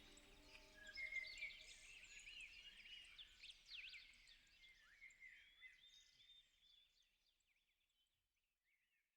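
Songbirds chirping and whistling, many short calls overlapping, fading gradually until they die out near the end. The last soft notes of background music trail off in the first second or two.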